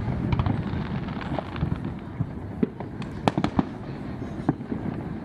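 Fireworks exploding: a rapid scatter of sharp cracks and pops over a continuous low rumble, with the loudest cracks a little past three seconds in.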